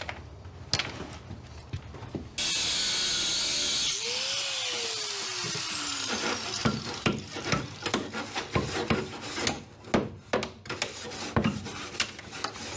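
Angle grinder cutting and grinding off welded steel pieces along a weld seam. It switches on suddenly a couple of seconds in, its pitch drops once as the disc bites, and then it works in short, uneven contacts with many sharp scrapes and knocks on the steel.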